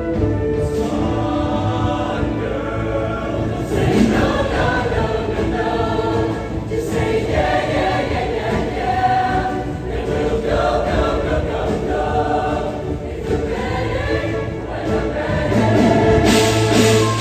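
A show choir singing sustained chords in harmony over instrumental accompaniment with a bass line.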